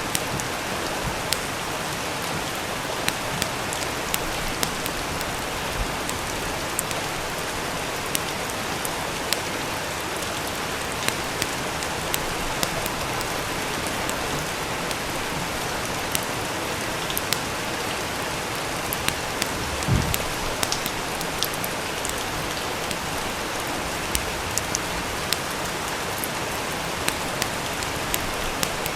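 Steady rain hiss with frequent sharp crackles and pops from a wood fire, and one louder, deeper pop about twenty seconds in.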